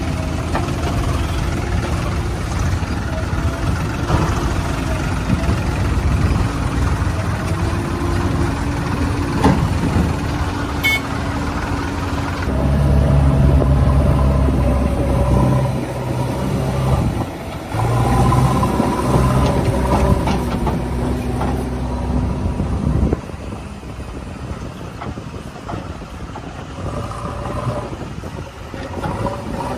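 Heavy diesel machinery engine running, revving up and holding higher under load twice in the middle, then dropping back to a lower run.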